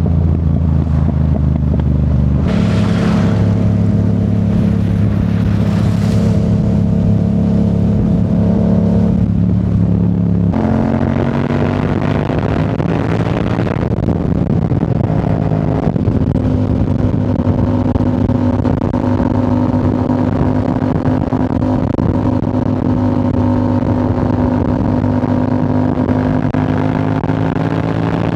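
Yamaha R7's parallel-twin engine through a Yoshimura AT2 full exhaust, running under way. Its note steps up in pitch suddenly twice, about two and a half and ten and a half seconds in, then climbs gently, with a few short rushes of hiss over it.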